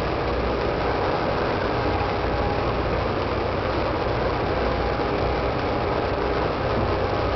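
Ship's engine running steadily, a deep hum under an even rushing noise with no change in pitch or level.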